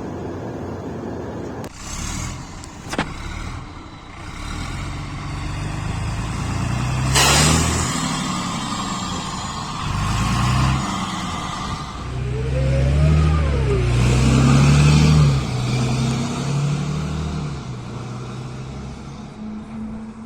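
Diesel engine of a Mercedes-Benz Citaro city bus with a broken exhaust, heard from inside while the bus pulls away and accelerates. The engine note climbs in pitch several times and drops back between climbs as the automatic gearbox shifts, and there is a brief sharp burst of noise about seven seconds in.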